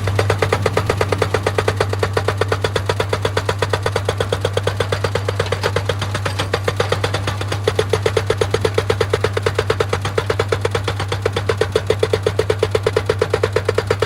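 Excavator-mounted hydraulic rock breaker hammering stone in a rapid, steady run of blows, over the machine's engine hum.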